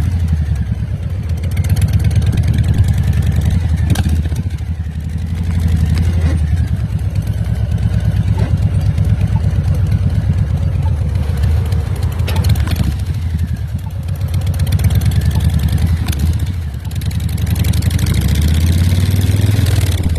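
Harley-Davidson Ironhead chopper's V-twin engine running, its speed and loudness dipping and rising again several times.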